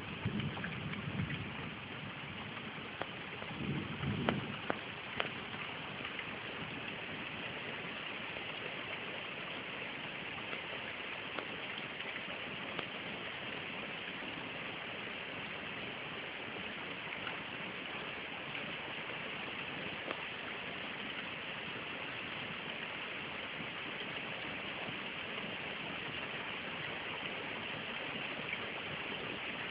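Steady rain falling, a constant hiss, with brief low rumbles of thunder in the first few seconds.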